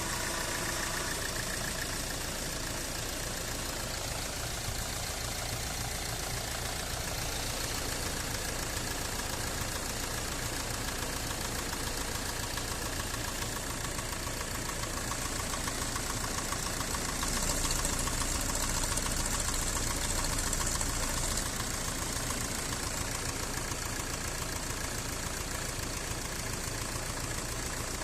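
Mercedes-Benz Sprinter van engine idling steadily with a knock, a little louder for a few seconds past the middle. The owner names knocking and smoke as the van's fault.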